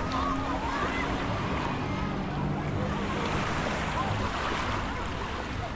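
Ocean surf washing onto a beach as a steady rush, with faint voices of people in the background.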